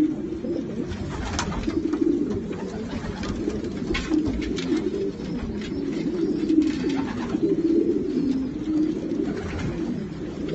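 Racing pigeons cooing together, a continuous overlapping low warble from many birds, with scattered light clicks and scrapes.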